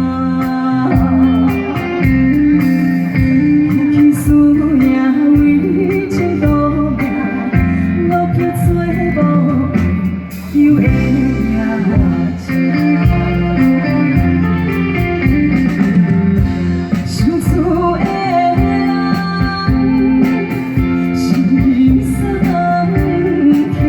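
A woman singing a Taiwanese Hokkien ballad over music with guitar.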